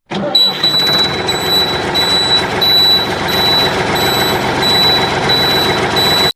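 Vehicle reversing alarm beeping steadily at a high pitch, about three beeps every two seconds, over loud, steady engine or motor noise.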